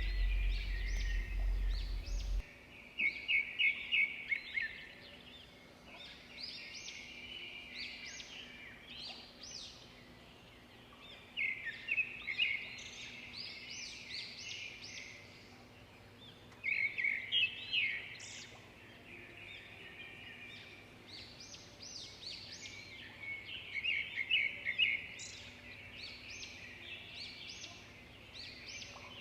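Small birds singing and chirping in bursts of quick repeated notes and trills every few seconds, with quieter pauses between. A low rumble in the first couple of seconds stops about two and a half seconds in.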